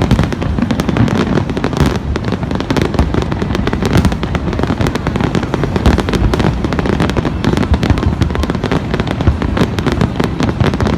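Fireworks display in full flow: a dense, continuous barrage of booming shell bursts and crackling, with rapid sharp reports layered over a rolling low rumble.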